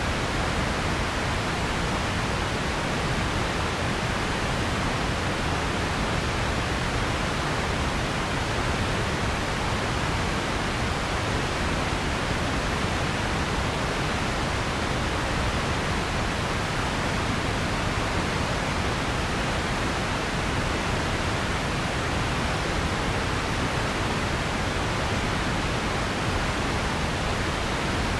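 Steady pink noise: an even, unchanging hiss across all pitches, weighted toward the lows.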